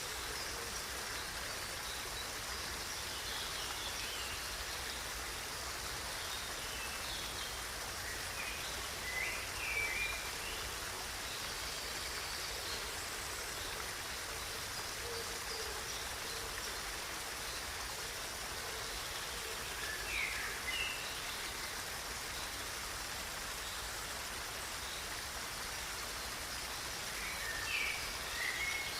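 A stream running steadily with an even rush of water. Short bird chirps come through a few times, clearest about ten seconds in, around twenty seconds and near the end.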